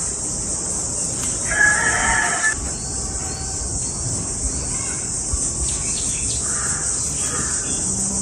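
A bird calls with a drawn-out, crowing-like note about one and a half seconds in, then gives two shorter calls near the end, over a steady high hiss.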